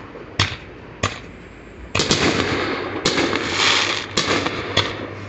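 Fireworks going off: about six sharp bangs spread through a few seconds, with a crackling hiss between them from about two seconds in.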